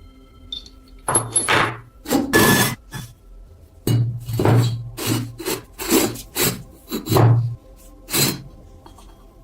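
About a dozen irregular hand-rubbing strokes on the metal of the antique oil lamp, each lasting a fraction of a second, with faint background music behind.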